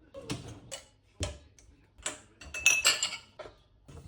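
Dishes and cutlery being handled: a series of separate knocks and clinks, with a brief ringing clatter about three seconds in.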